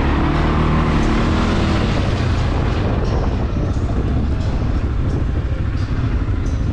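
CFmoto CForce 520 ATV's single-cylinder engine running under way, its tone plain for the first couple of seconds and then fading under a steady rushing noise.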